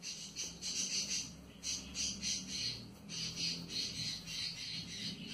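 A bird calling in a rapid run of short, high chirps, about four or five a second, with brief pauses, over a faint low hum.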